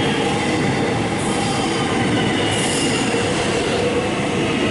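X'Trapolis electric multiple-unit train running along the platform: a steady rumble of wheels on rail with a thin high squeal held over it.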